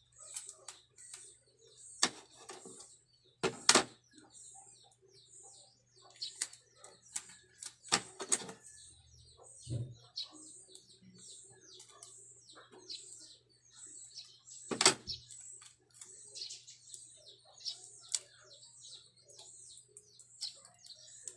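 Bird chirping in short high notes, about twice a second, with several sharp clicks and knocks from hands handling the craft materials, the loudest a few seconds in and about two-thirds of the way through, over a steady low hum.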